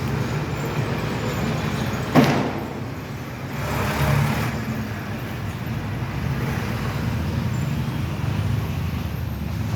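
Road traffic with a steady low engine hum. About two seconds in, a vehicle passes close with a sudden loud rush that drops in pitch, and another passes a second or two later.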